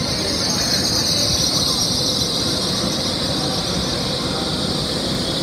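A TransPennine Express passenger train moving slowly along a station platform: a low rumble under a steady, high-pitched hiss that drifts slightly lower in pitch.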